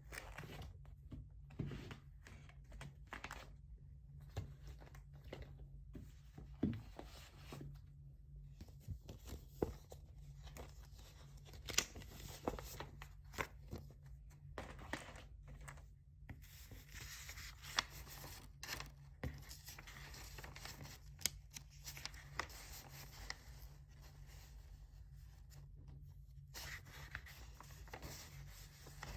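Pen writing on paper: irregular short scratchy strokes and taps over a steady low hum.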